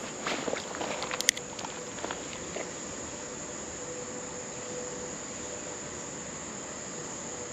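Steady, high-pitched drone of an insect chorus, with a few light clicks in the first couple of seconds.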